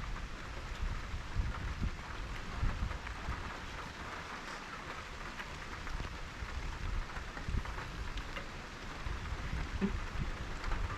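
Steady rain falling, with faint scattered drips and a low rumble underneath.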